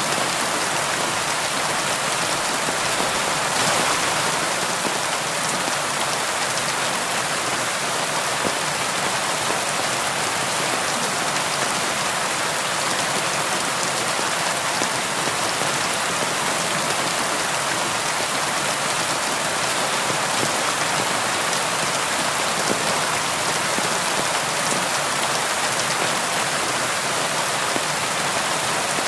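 Steady rain falling and pattering on a window, an even hiss with fine scattered drop ticks.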